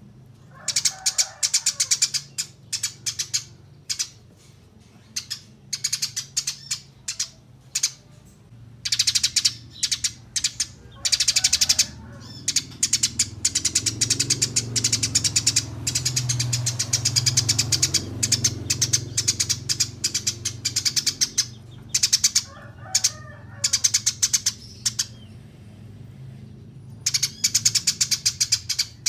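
Eurasian tree sparrow chirping in rapid runs of short, high chirps, coming in bursts with brief pauses and a long unbroken stretch through the middle.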